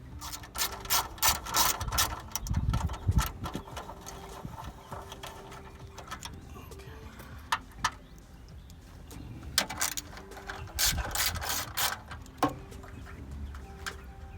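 Hand socket ratchet clicking in several short bursts, with pauses between them, as the two 8 mm bolts holding the radiator brackets are backed out.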